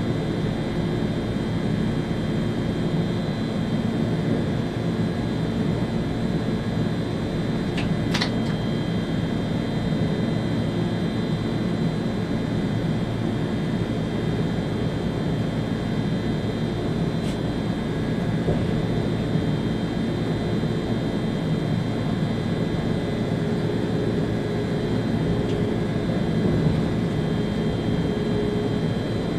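Steady running noise inside the driver's cab of an ÖBB Railjet train travelling on the line: an even rumble with a few steady high-pitched tones above it. There are two brief clicks, about 8 seconds in and again about 17 seconds in.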